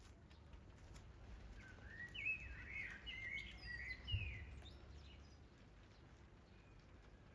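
A songbird singing a short warbling phrase of quick rising and falling notes for a few seconds, over a faint background of light rain ticking and a low steady hum. A brief low thump comes about four seconds in.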